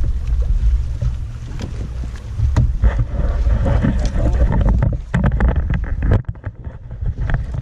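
Strong wind buffeting the microphone in a low, steady rumble, with scattered clicks and knocks. The clicks come thickest about five to seven seconds in, where the wind briefly eases.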